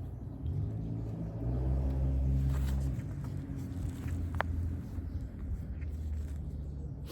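A motor vehicle's engine running nearby, a low hum that grows louder about one and a half seconds in and then settles. There is one short sharp click a little past the middle.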